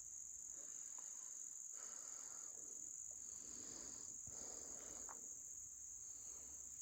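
Faint, steady, high-pitched insect chorus, with a few light knocks.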